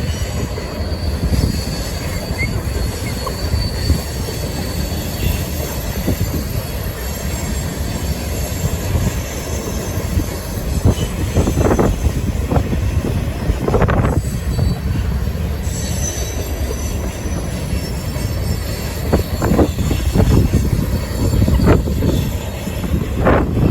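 Empty coal cars of a freight train rolling past with a steady rumble of wheels on rail. Thin high wheel squeal is heard in the first part, and a few sharp knocks come in the second half.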